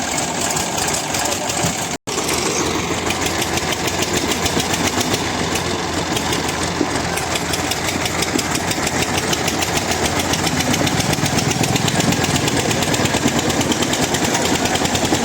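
Tractor diesel engines labouring at full load as they pull against each other in a tug of war, a fast, steady beat of exhaust pulses that grows a little louder toward the end. The sound cuts out for an instant about two seconds in.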